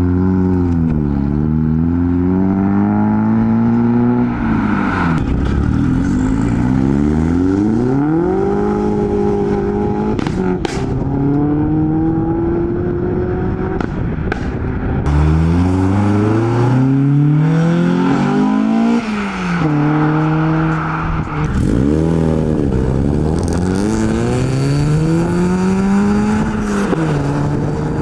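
Modified cars accelerating away one after another, their engines revving up through the gears so the pitch climbs and drops back again and again. A couple of brief sharp cracks come around the middle.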